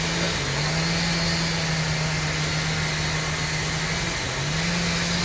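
Engine of sawmill machinery running steadily, its pitch sagging briefly near the start and again about four seconds in, then picking back up, over a broad mechanical noise.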